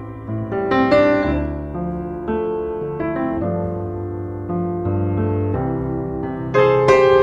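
Background music: a piano playing a gentle series of notes and chords.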